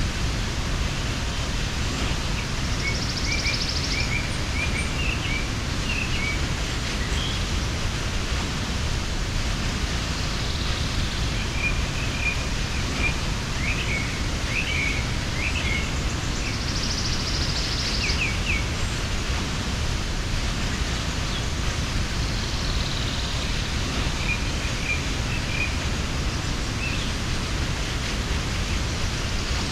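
Mountain waterfall pouring steadily, with small birds chirping on and off and a high buzzy trill that recurs every six or seven seconds.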